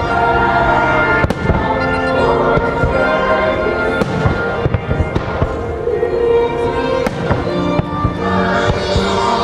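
Aerial fireworks bursting with sharp bangs and crackling, the loudest about a second, four seconds and seven seconds in, over the show's music, a medley of American folk songs.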